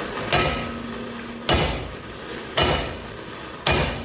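Hammer blows on the steel of a bulldozer track chain: four heavy strikes about a second apart, each ringing briefly.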